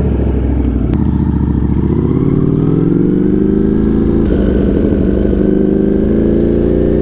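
200-plus-horsepower motorcycle engine pulling away and accelerating, its pitch rising steadily, with a short break about four seconds in before it climbs again.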